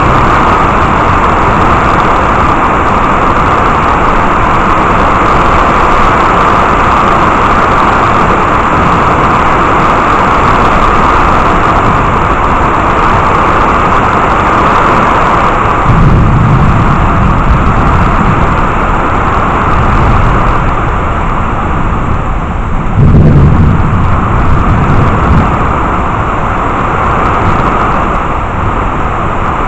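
Heavy rain falling steadily, with two low rumbles of thunder, one about halfway through and a stronger one a few seconds later.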